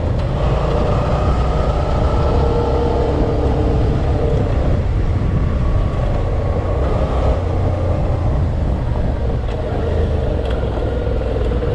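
Motorcycle engine running while riding off-road, holding a fairly steady pitch with small rises and falls.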